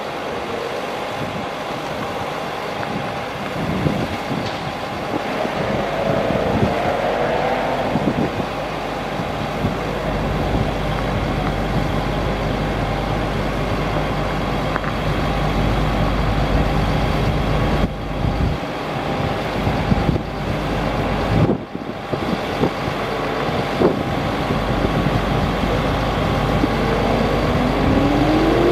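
A Chevrolet C7500 truck running steadily. Its pitch rises and falls briefly about six seconds in and climbs again near the end, with a few brief knocks.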